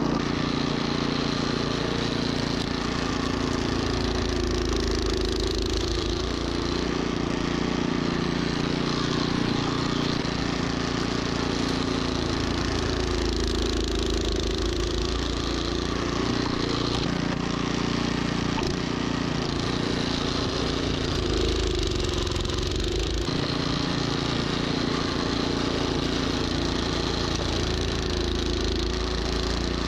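Troy-Bilt snowblower's gas engine running steadily under load, its pitch wavering and dipping briefly now and then as it works through the snow.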